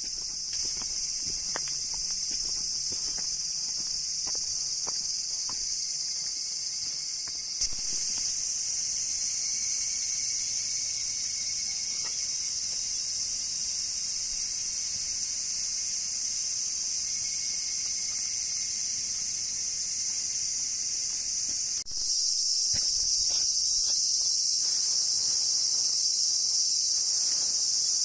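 A dense chorus of summer insects keeps up one steady high-pitched drone. A few light ticks or steps come in the first few seconds. About 22 seconds in, the chorus briefly drops and then comes back louder.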